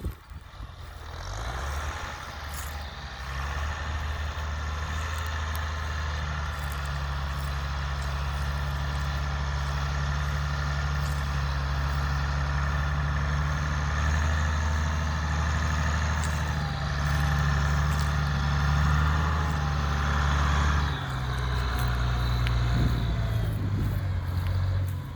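Case IH 1056 XL tractor's six-cylinder diesel engine running steadily under load while ploughing. It builds up over the first couple of seconds, then the engine note drops and changes about 21 seconds in.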